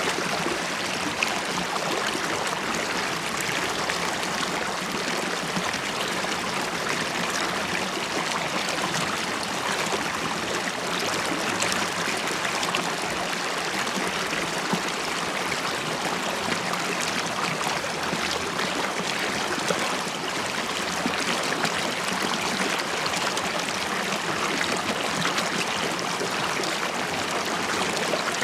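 River water flowing and gurgling over stones, a steady, even rush with bubbling.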